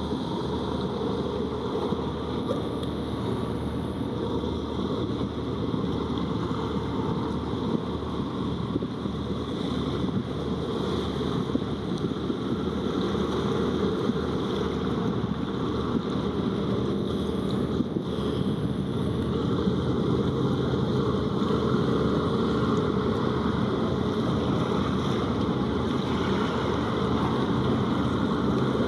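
Wind buffeting the microphone over a steady low rumble, growing a little louder in the second half.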